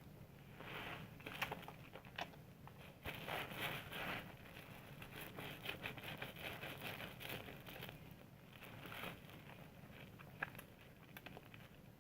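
Soap being lathered with water: faint, irregular squishing and crackling of foam.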